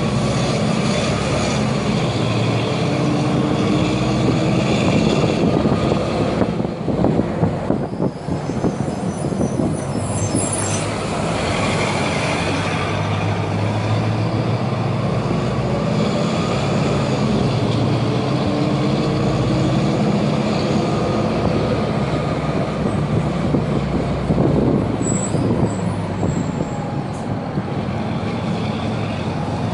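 Agrale MT 17.0 LE city bus's four-cylinder diesel engine running under way, its note rising and dropping a few times as it pulls away and changes gear.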